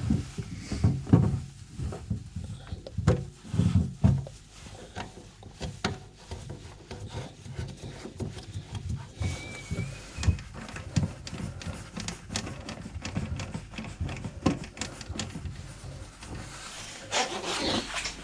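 Sink waste trap and pipework being handled and fitted under a sink: irregular clicks, knocks and rubbing of the fittings, with a few louder thumps in the first few seconds.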